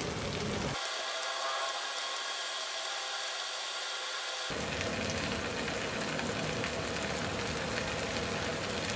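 Chopped green chillies and cumin seeds frying in hot oil in a kadai: a steady sizzle.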